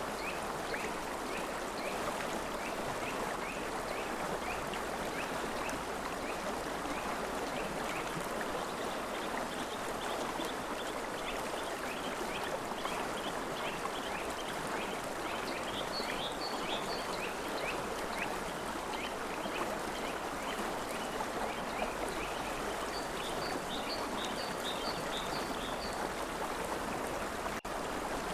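River water flowing in a steady rush, with rapid high chirping calls repeating over it. The sound cuts out for an instant near the end.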